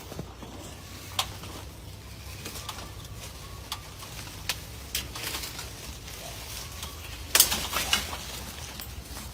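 Scattered sharp clicks and knocks over a low steady hum, with a louder cluster of knocks about seven seconds in.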